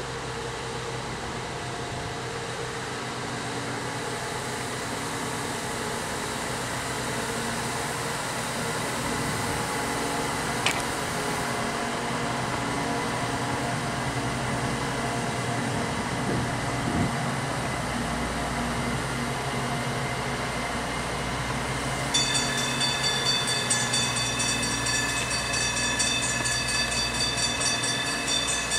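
A cog railway train running, its engine drone steady and growing slightly louder. A single sharp click comes about eleven seconds in, and high ringing tones join in about three-quarters of the way through.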